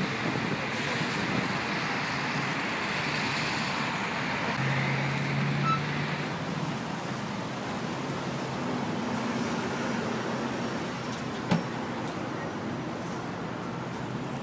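Steady road and traffic noise heard from a moving car, with a low drone for about two seconds around five seconds in and a single short sharp knock about eleven and a half seconds in.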